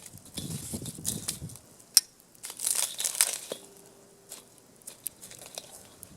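Dry tinder or kindling being handled, crumpled and torn in irregular rustling bursts, with one sharp snap about two seconds in.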